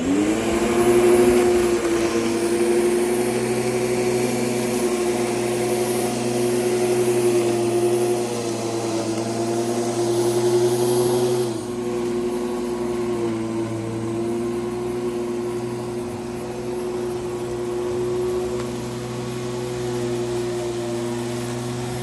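Electric lawn mower switched on, its motor spinning up in a moment to a steady whine. A little past halfway the whine drops slightly, dips once more soon after, then runs on.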